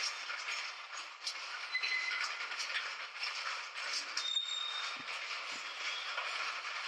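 Train running on the rails: a steady rushing rolling noise with scattered clicks and a few brief high squeals.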